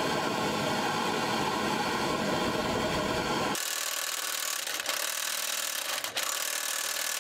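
Handheld torch flame hissing steadily as it heats a seized exhaust manifold bolt to loosen it. About three and a half seconds in, the sound changes abruptly to a thinner, higher hiss.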